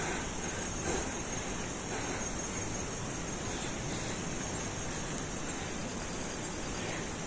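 Crickets trilling steadily, a continuous high-pitched chorus over a hiss of background noise.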